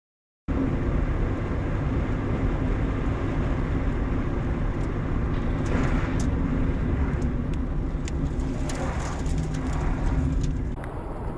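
Steady low rumble of a car driving, engine and tyre noise heard from inside the car, starting abruptly about half a second in, with a few faint ticks.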